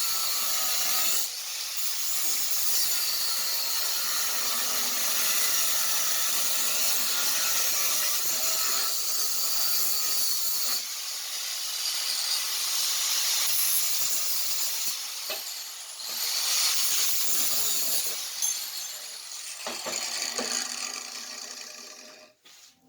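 Power tool work on a small steel angle bracket: a loud, steady, hissing grind that stops and restarts abruptly several times.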